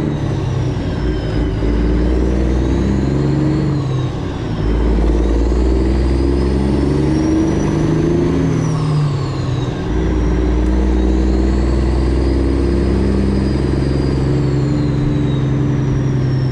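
Straight-piped Freightliner Classic XL with a Detroit Diesel 12.7 engine, running under load at low speed. The engine note drops briefly about four seconds in and again about ten seconds in, then pulls again. A thin high whistle rises and falls above it.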